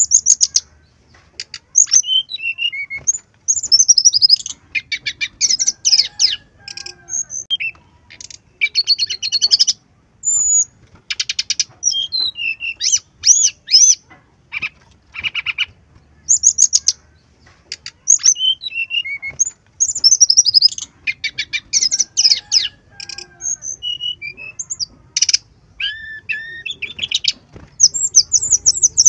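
Brown-chested jungle flycatcher (sikatan rimba dada coklat) singing a fast, varied song of short whistled phrases, rapid trills and slurred notes, one phrase after another with brief gaps. The song is packed with mimicked notes.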